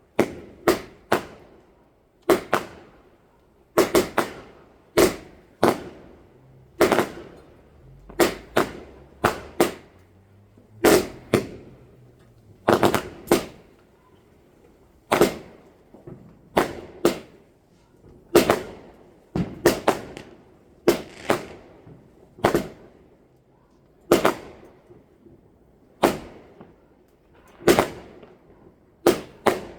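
Fireworks going off: a long run of sharp bangs, about one every second and some in quick pairs, each with a short echoing tail.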